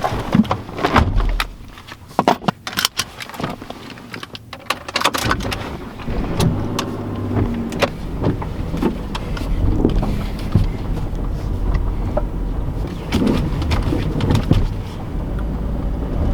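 A few sharp clicks and knocks, then from about five seconds in a car running steadily with low engine and road rumble.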